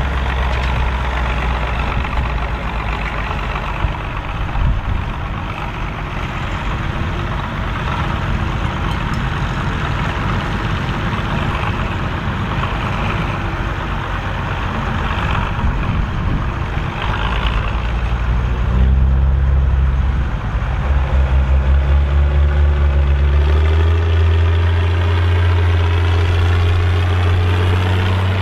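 Massey Ferguson 2680 tractor's diesel engine running steadily under load while pulling a cultivator through the field. About two-thirds of the way through the engine note changes, throbbing evenly for a few seconds before settling into a steady deeper hum.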